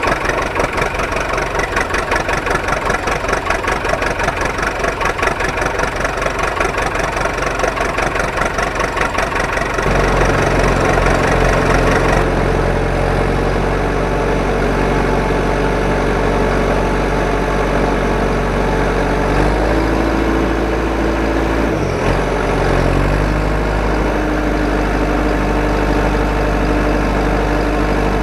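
An engine running: a fast, even chugging for about the first ten seconds, then a deeper, steadier engine hum that shifts a little in pitch about two-thirds of the way through.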